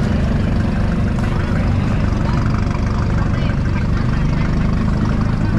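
Vehicle engines idling steadily with a low, even drone, amid the general noise of a crowded car meet.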